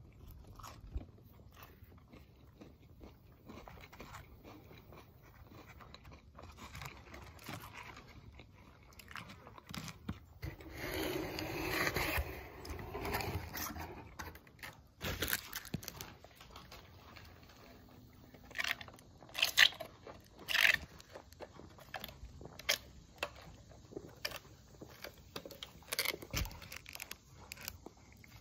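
Close-up chewing and crunching of food with lettuce, with small mouth clicks throughout. There is a louder spell about halfway through and a few sharp clicks later on.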